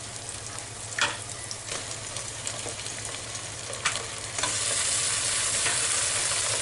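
Hot mustard oil sizzling under softened onions in an aluminium pressure cooker, with a few sharp clicks against the pot. About four seconds in, the sizzle grows louder as raw mutton pieces are dropped into the hot oil.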